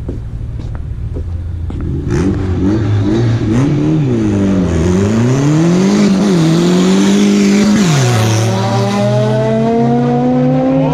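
Car engine idling, then revved hard several times from about two seconds in. Near the end it holds a long, steadily rising pitch as the car accelerates away.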